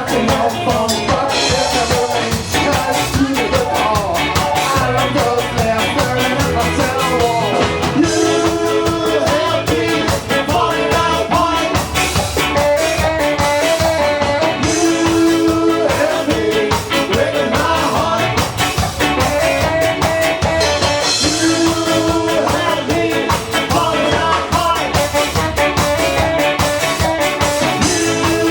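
Ska band playing live, loud and continuous, with singing over a steady driving rhythm.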